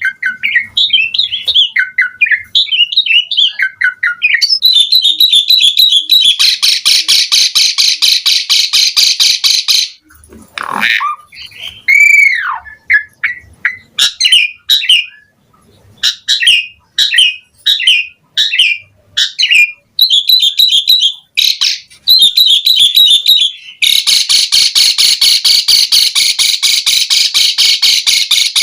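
Asian pied starling (jalak suren) singing a varied, mimicry-filled song: quick whistles and chirps broken by two long spells of fast, loud rattling chatter, with a few gliding whistles in the middle.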